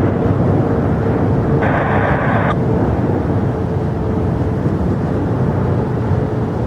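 Jet airliner engines running: a loud, steady rumble with a faint steady hum above it. A short burst of hiss comes about two seconds in.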